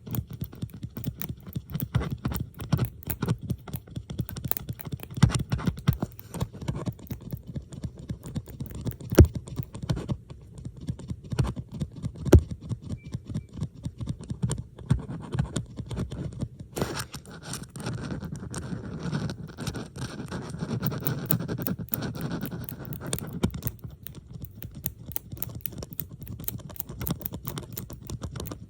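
Layered ASMR sounds of metal bobby pins being handled close to the microphone: quick, irregular clicking and tapping. Past the middle comes a stretch of steadier scraping under the clicks.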